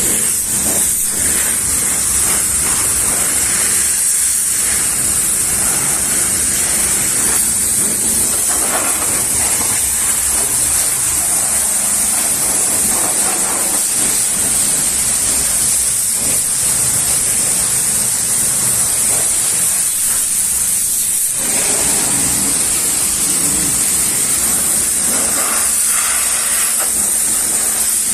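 High-pressure washer spraying water onto a car, a steady loud hiss.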